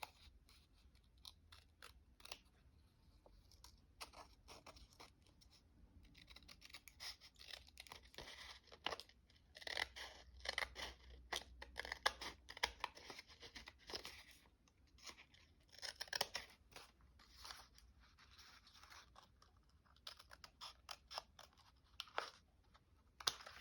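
Faint paper handling: a page being removed from a handmade junk journal, with soft crinkling, rustling and quick little clicks coming in clusters through the middle.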